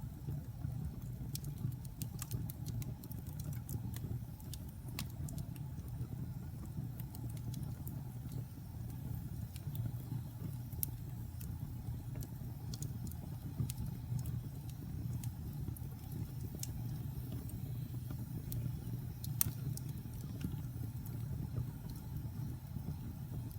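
Wood fire burning in a fireplace: a steady low rumble of flame with scattered small crackles and pops, and one sharper pop late on.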